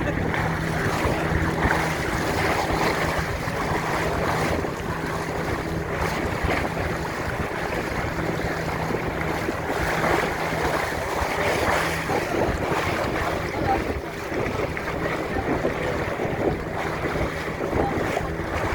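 Small boat's engine running with a steady hum, under wind buffeting the microphone and water rushing and splashing past the hull; the engine hum fades about twelve seconds in.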